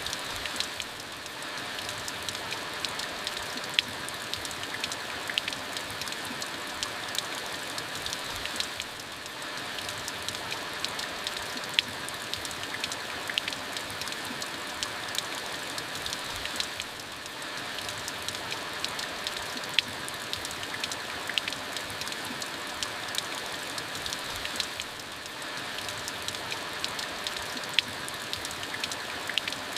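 Steady rain with many separate drops ticking on a surface. It dips slightly in level about every eight seconds.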